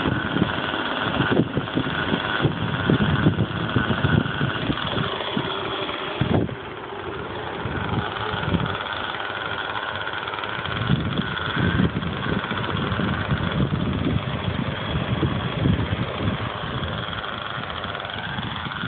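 Raptor 30 nitro RC helicopter's small glow engine running with a steady high whine, under heavy wind buffeting on the microphone. A sharp knock about six seconds in, after which it is a little quieter.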